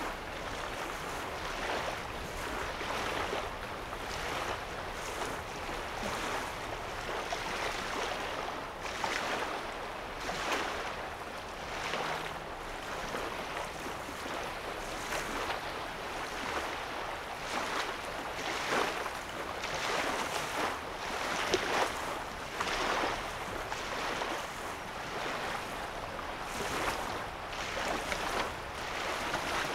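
Small lake waves lapping on a sandy shoreline, a soft splash every second or two over a steady wash of water.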